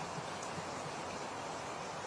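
Steady outdoor background noise, an even hiss with no distinct calls or knocks.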